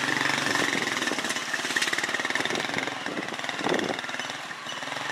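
Small motorcycle's engine running steadily with a fast, even pulsing, heard from on the bike as it rides.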